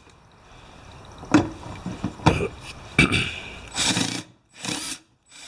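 A 10mm socket being worked on bolts in a car engine bay: a few sharp metal clicks and knocks, then three short rasping bursts near the end.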